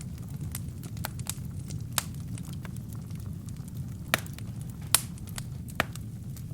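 Burning firewood crackling: scattered sharp pops and snaps over a steady low rumble of the flames, with the loudest pops about two seconds in and three more in the second half.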